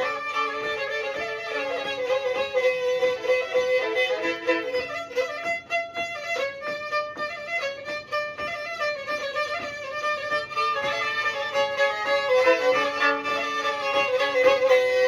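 Black Sea kemençe, a small bowed fiddle, playing an instrumental interlude between sung verses: a lively bowed folk melody with several notes sounding together over a steadily held pitch.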